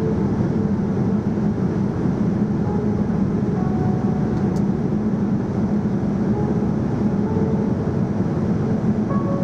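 Steady cabin noise inside a Boeing 787-9 Dreamliner: an even, unbroken rumble of engines and airflow heard from the passenger cabin.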